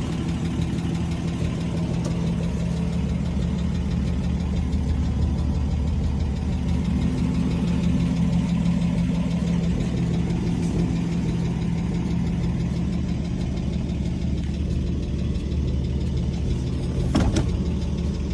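1951 Chevrolet Styleline Deluxe's 216 cubic-inch inline-six idling steadily, with a single sharp click near the end.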